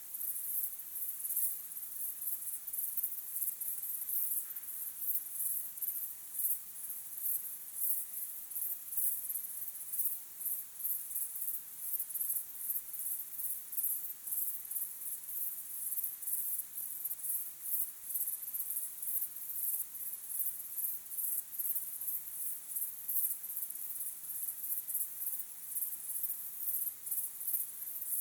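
Crickets chirping in a continuous chorus of rapid, high-pitched pulses.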